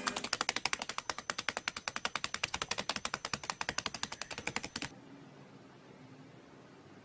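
A rapid, even run of sharp clicks, about ten a second, that stops abruptly about five seconds in.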